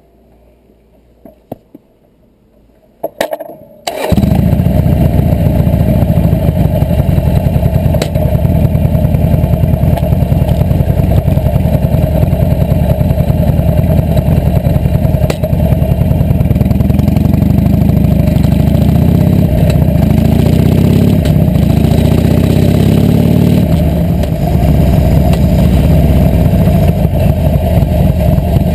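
Harley-Davidson Nightster's air-cooled V-twin starting suddenly about four seconds in, after a few clicks, then running loud. Past the middle it revs up and down as the bike rides off.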